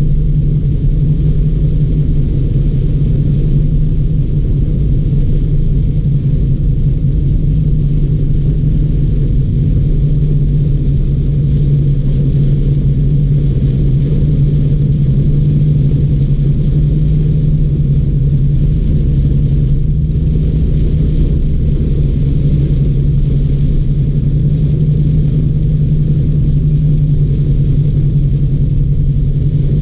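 Car driving in heavy rain: a steady low rumble with a faint hiss above it.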